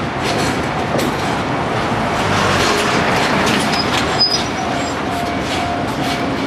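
Freight train of tank wagons rolling by: a steady rumble of wheels with irregular clacks over the rail joints and a faint wheel squeal.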